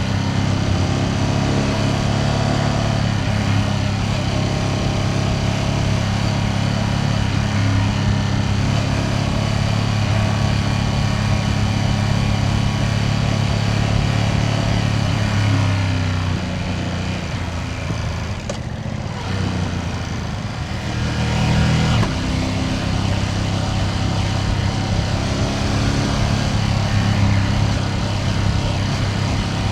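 Ducati Panigale V2S's V-twin engine running steadily while riding. Past the middle, the engine note falls and quietens for several seconds, then comes back abruptly.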